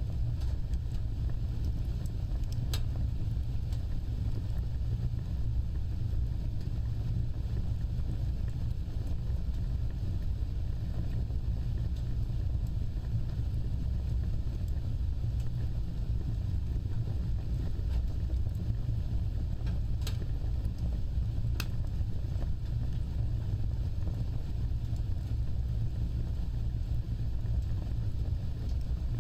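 Wood fire burning with a steady low rumble of flames, broken by a few sharp crackling pops: one about three seconds in and two close together around twenty seconds in.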